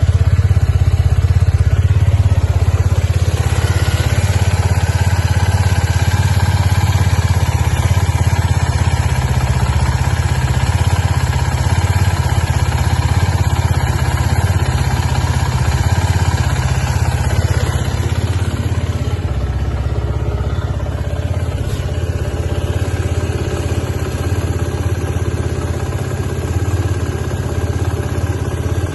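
Suzuki Gixxer 250SF's single-cylinder engine idling with a steady low note.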